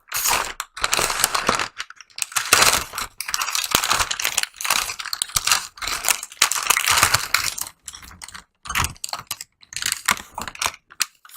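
Takeout food packaging being opened and handled: a run of irregular crinkling, crackling and clicking bursts, with a few short pauses.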